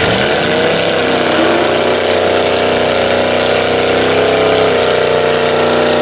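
Mud truck engine running hard at high, steady revs. Its pitch drops over the first second or so, then holds with a slight sag near the end.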